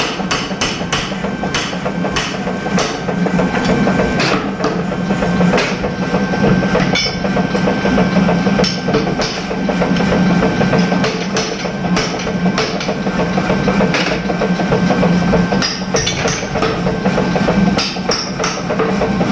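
Irregular heavy hammer blows on metal, roughly one every second or so, over a steady machine hum.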